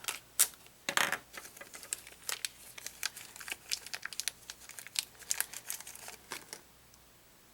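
Plastic packaging being handled and crinkled: a run of quick irregular crackles and clicks, loudest in the first second, stopping about six and a half seconds in.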